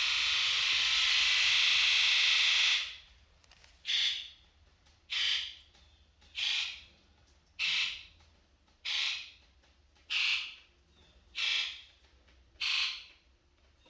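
7.3L Powerstroke diesel fuel injectors buzzing during an electrical buzz test. All of them buzz together for about three seconds, then come eight short buzzes a little over a second apart, one injector at a time. All sound healthy and much better than before the fix.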